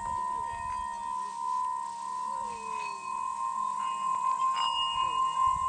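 Tibetan singing bowl rubbed around its rim with a stick, singing one steady tone that wavers and grows louder in the second half as the stick is turned slowly. Fainter, higher bowl tones ring alongside it.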